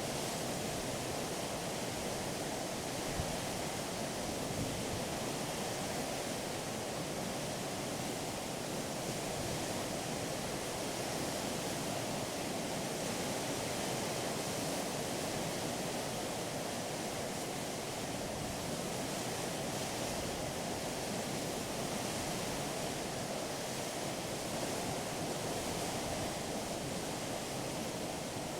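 Steady rush of water along a moving ship's hull, an even hiss with no changes and no distinct engine tone.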